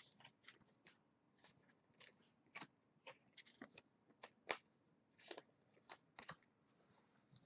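Faint, irregular rustles and light clicks of trading cards being slid into soft plastic sleeves.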